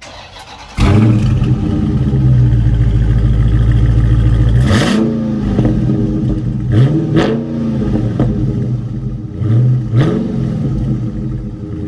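A 2020 Dodge Charger Scat Pack Widebody's 6.4-litre HEMI V8 starting up with a sudden loud catch just under a second in, then settling to a steady idle. It is revved in four short throttle blips: one about five seconds in, two in quick succession around seven seconds, and one near ten seconds.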